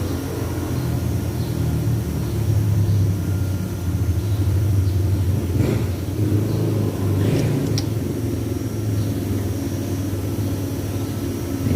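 A car engine running steadily with a low hum, a little louder from about two seconds in, with a few sharp clicks or knocks about halfway through.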